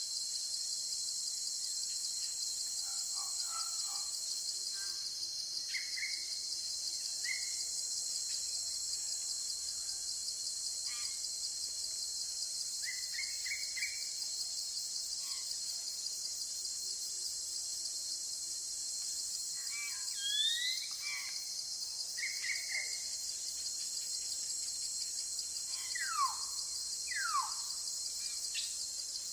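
A steady, high-pitched chorus of insects fills the background, with scattered bird calls over it: short chirps in quick groups of two or three, a rising note about two-thirds of the way through, and two clear whistles sweeping downward near the end.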